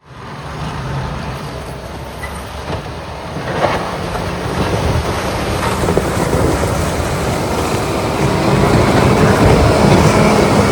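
Diesel engines of heavy motor graders (Deere 770G and CAT 140) working under load while plowing snow, a low rumble with a rough mechanical clatter that grows steadily louder.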